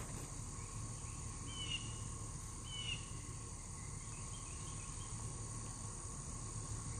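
Outdoor morning ambience: insects trilling steadily, with two short bird chirps about two and three seconds in, over a low rumble.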